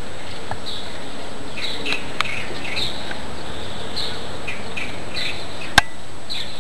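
Small birds chirping in short, repeated calls over a steady hiss, with a single sharp click near the end.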